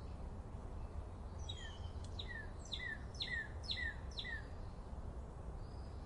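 A songbird sings a series of about six short, clear, down-slurred whistles, roughly half a second apart, over a steady low background rumble.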